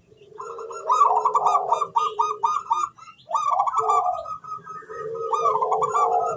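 Zebra dove (perkutut) singing in full song: two long phrases of quick, repeated cooing notes, about four to five a second. The second phrase begins about three seconds in.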